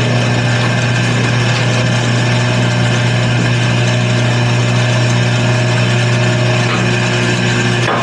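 Wood lathe running steadily: a constant motor hum with a broad whir over it.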